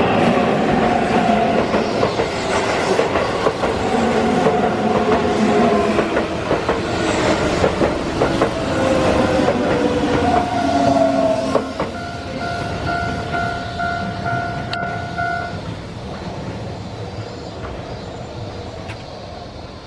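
Keihan electric train passing through a level crossing with wheel clatter and motor tones that fall in pitch as it goes by. About twelve seconds in the train noise drops away and the level-crossing warning bell rings in an even beat for a few seconds, then stops suddenly.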